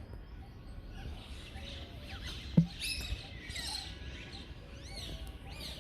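A mix of aviary birds chirping and calling: short high chirps scattered throughout, a busier burst about three seconds in, and a quick run of rising-and-falling high notes near the end. A single brief thump about two and a half seconds in.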